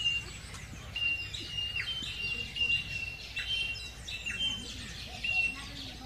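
Birds calling: a run of short, level whistled notes, about two a second, some ending in a quick drop in pitch, over a low steady background noise.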